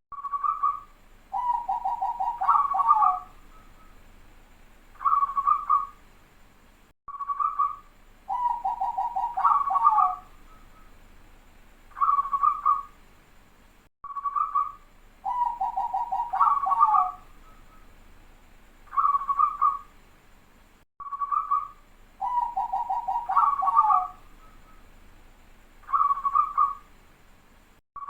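Zebra dove (perkutut) singing its cooing song: a short coo, a fast rolling trill, then closing coos. The phrase repeats about every seven seconds, four times.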